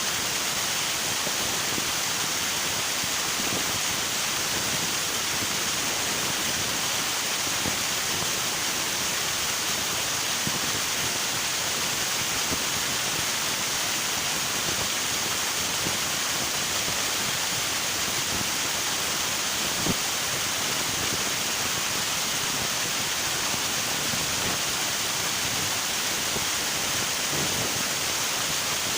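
A river rushing steadily over rocks, a constant full hiss of moving water with small splashes in it.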